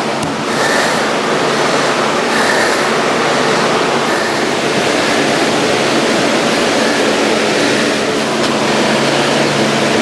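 A machine running steadily: a loud, even rushing noise with a faint low hum under it.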